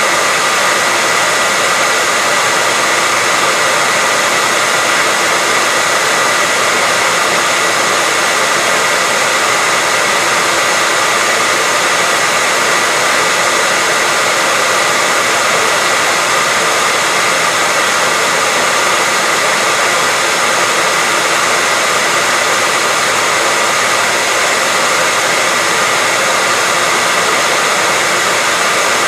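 Hair dryer running steadily at constant speed: an even rushing hiss of blown air with a thin, steady whine from the motor, unchanging throughout.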